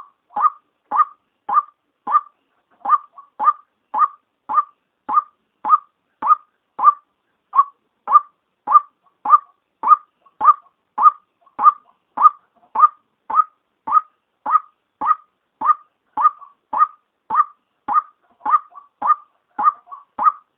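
Female white-breasted waterhen calling: a long, monotonous series of short, sharp notes repeated a little under two times a second, each note the same pitch.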